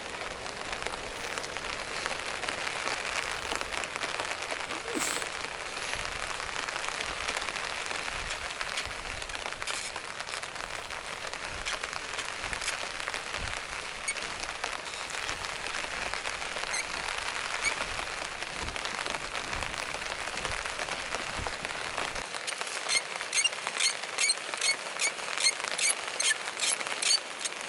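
Steady rain falling on the woodland. Near the end a bow drill starts: the wooden spindle squeaks in a fast, even rhythm, about three squeaks a second, as the bow is sawn back and forth.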